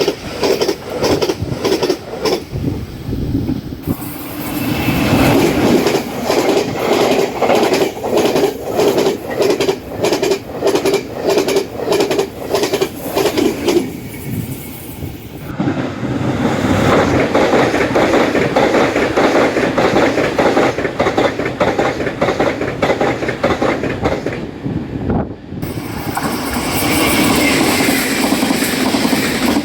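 Taiwan Railways trains passing at high speed, their wheels clacking rhythmically over fishplated rail joints in a steady run of sharp clicks. The sound changes abruptly a few times as one pass gives way to another.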